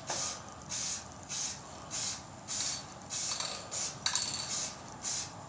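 Aerosol spray-paint can hissing in short bursts, about two a second, as paint is laid on in quick passes for the coverage coat.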